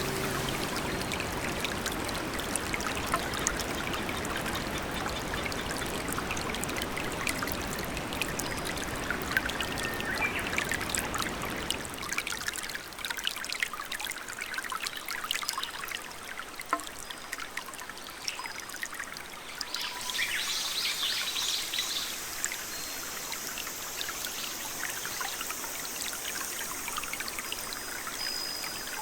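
Steady trickling and pouring water, like rain or a small stream, with many small drip-like ticks. About twelve seconds in, the low rush drops away and it becomes a lighter, thinner trickle.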